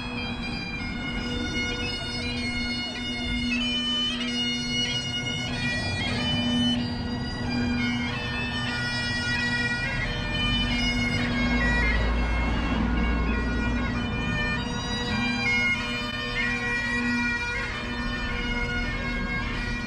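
Bagpipes playing a tune: a steady drone held underneath while the chanter steps through a melody above it.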